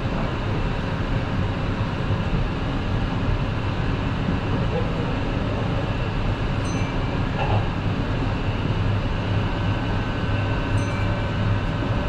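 Running noise inside a Kintetsu 22000-series ACE limited-express electric train on the move: a steady rumble of the car and its wheels on the rails, with faint steady tones above it.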